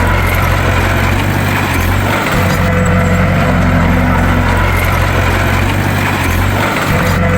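Bulldozer's diesel engine running steadily under load, with a brief dip in its low sound about two seconds in and again near the end.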